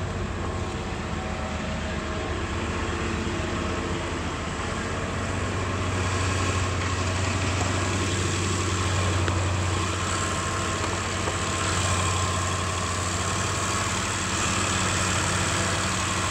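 Party bus engine idling steadily with a low hum. An even airy hiss, typical of its air-conditioning blowers running, lies over it and grows slightly louder about six seconds in.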